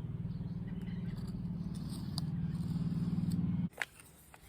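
Low, steady buzzing like a swarm of bees, cutting off abruptly about three and a half seconds in, followed by a few faint clicks.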